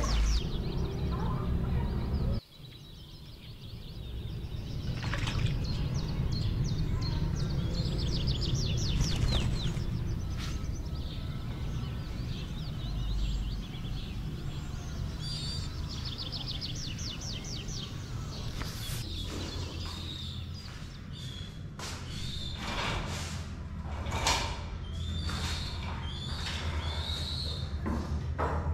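A small bird chirping in quick runs of rapidly repeated high notes, over a steady low hum.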